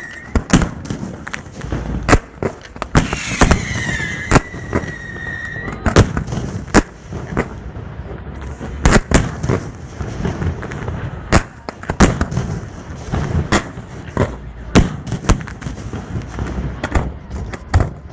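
Fireworks display going off close by: a fast, irregular run of sharp bangs from shells bursting, sometimes several in a second. A high whistle dips and then holds steady for a couple of seconds early in the run.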